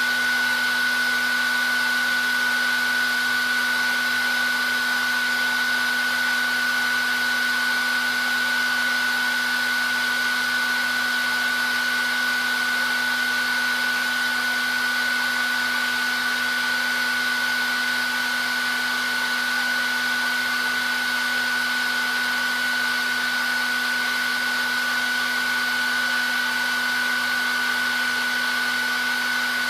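Hair dryer running steadily: an even rushing hiss of blown air with a constant high whine and a lower hum underneath.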